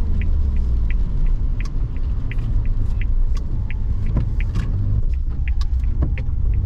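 A Suzuki Jimny driving, heard from inside the cabin: a steady low engine and road rumble with scattered light clicks and rattles.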